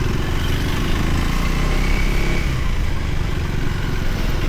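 Motorcycle engine running steadily, a fast even beat low in pitch, under a hiss of noise.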